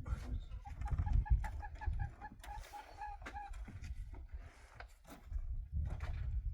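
A hen clucking in a quick run of short, evenly spaced notes for about three seconds.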